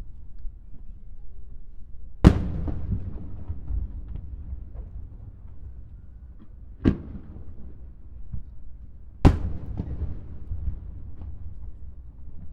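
Aerial firework shells bursting: three loud booms, about two, seven and nine seconds in, each trailing off in a long rolling rumble, with a low rumble between them.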